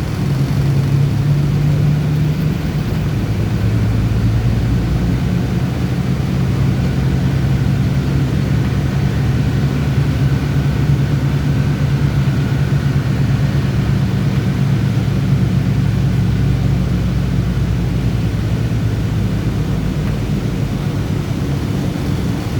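City bus engine running steadily while the bus is driven, a low hum that shifts slightly in pitch as engine speed changes.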